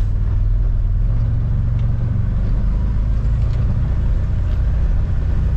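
Vehicle engine running steadily, a continuous low drone heard from on board the moving vehicle.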